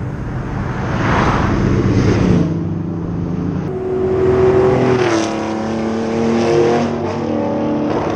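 Historic rally car's engine accelerating hard, its pitch climbing, dipping at a gear change a little past halfway, then climbing again; it cuts off abruptly at the end.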